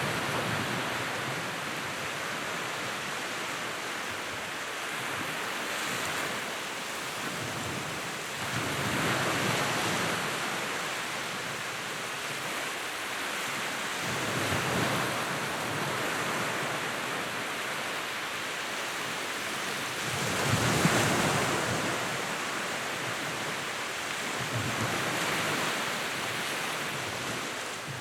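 Fire burning in a fireplace with a steady rushing roar that swells louder every few seconds, loudest a little past the middle.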